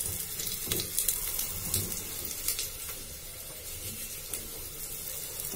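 Litti dough balls frying in hot oil in a pressure cooker, a steady sizzle with a few sharp crackles in the first couple of seconds.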